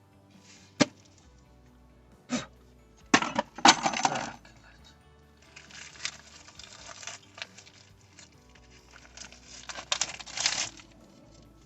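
Metal clinks and knocks, then scraping, as a new front brake rotor is handled and fitted onto the wheel hub.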